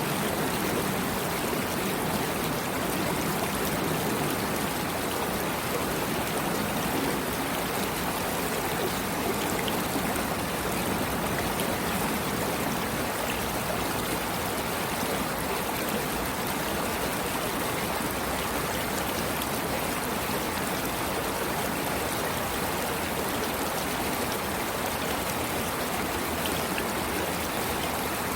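Running water of a flowing stream, steady and unbroken.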